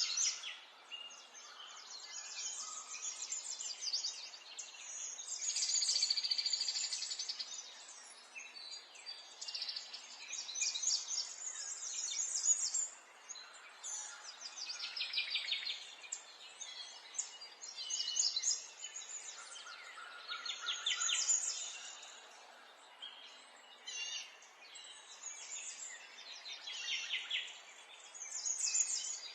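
Songbirds chirping and trilling in overlapping phrases that come every second or two, over a steady background hiss.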